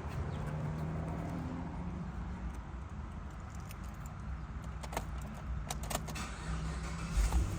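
2011 Chevrolet Camaro SS's V8 engine running at a steady low rumble, with a few sharp clicks and a jingle like keys around five to six seconds in and a louder knock near the end.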